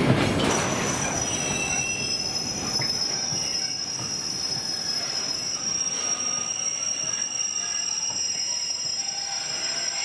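Train wheels squealing on the rails: several steady high-pitched tones set in about half a second in and hold, over a fading rumble of wheels on track.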